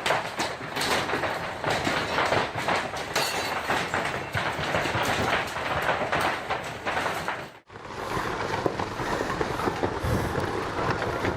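Heavy hail pelting down, a dense, continuous clatter of countless hailstones striking. About three-quarters of the way through it cuts off abruptly, and a smoother, steady rushing clatter follows.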